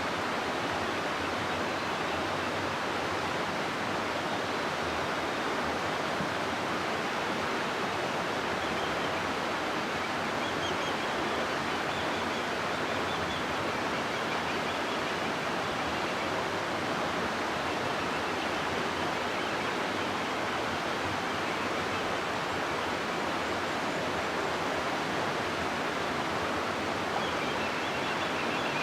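River water rushing steadily through a gorge, an even, unbroken roar of flowing water.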